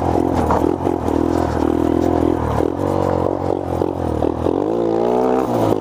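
1986 Honda 50R mini bike's small single-cylinder engine running under the rider, its pitch wavering with the throttle and then climbing as it revs up near the end.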